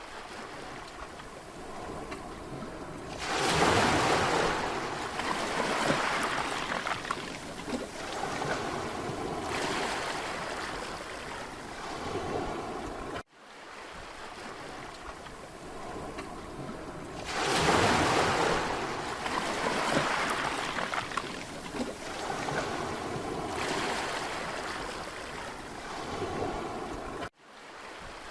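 Sea waves washing onto the shore, a wave breaking loudly about three and a half seconds in and again about seventeen and a half seconds in. The sound cuts out for an instant about halfway and again near the end, where the same stretch of recording repeats.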